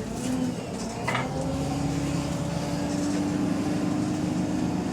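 Arriva DW-class double-decker bus engine pulling slowly, its note rising gradually, with a short knock about a second in. The bus is running in limp mode with a bad turbo.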